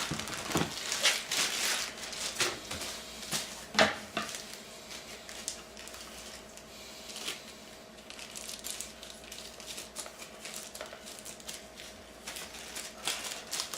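Packaging being handled while unpacking a cardboard shipping box: scattered rustles, light knocks and clicks, busiest near the start and about 4 seconds in, over a faint steady hum.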